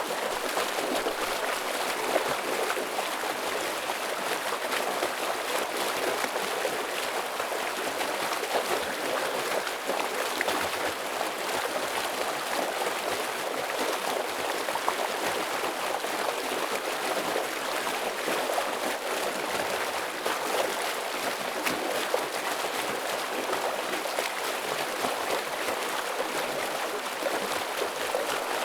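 Stream water flowing and splashing steadily over rocks, a continuous rushing with small irregular splashes.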